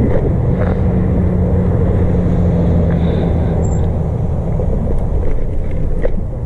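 Steady low rumble of riding an e-bike at speed, wind and road noise, with a low steady hum through the first half.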